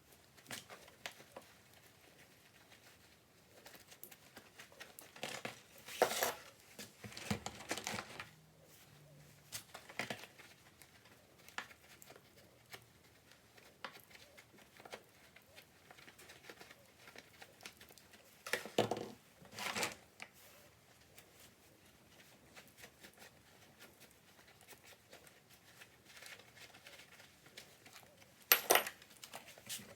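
Scattered short rustling and scraping noises from hand work in a small room, a few of them louder.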